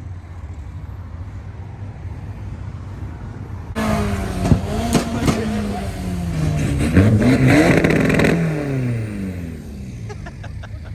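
Car engine revving hard several times, pitch climbing and dropping, with a few sharp exhaust pops. It starts from a low rumble, jumps suddenly louder about four seconds in, and after the revs die away it winds down before rising again near the end.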